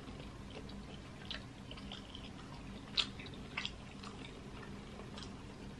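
Faint close-up chewing and wet mouth clicks from eating king crab leg meat dipped in buttery seafood-boil sauce. Scattered soft clicks throughout, the sharpest about three seconds in with two more just after.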